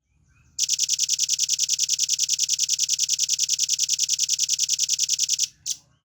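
Velvet-fronted nuthatch giving a long, fast, even trill of high notes, about nine a second, for about five seconds, followed by one short note.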